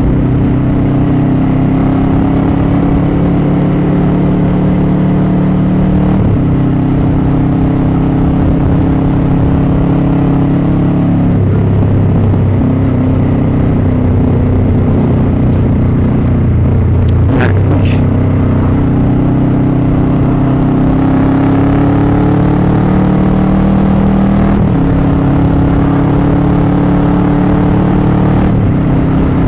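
Motorcycle engine running under way. Its note climbs slowly and drops back several times, heard from on the bike.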